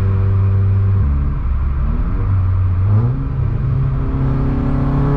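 Turbocharged four-cylinder engine of a big-turbo Volkswagen Golf GTI Mk7, loud inside the cabin. Its steady note drops about a second in, rises in pitch between about two and three seconds in, and holds a higher note to the end.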